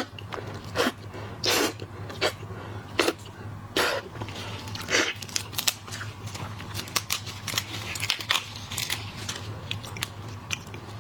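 Close-up eating of shrimp and crab: irregular crunching and chewing as the shells are bitten and cracked, over a steady faint low hum.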